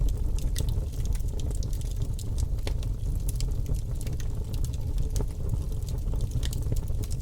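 Bonfire burning: a steady low roar of flames with irregular sharp crackles and pops from the burning wood.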